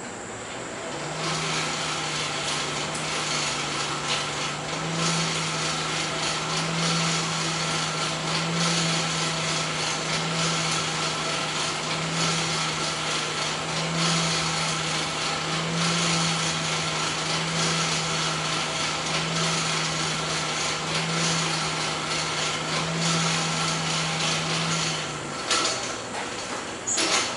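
An electric power tool starts about a second in and runs with a steady hum and a rasping noise that swells roughly every two seconds. It stops near the end.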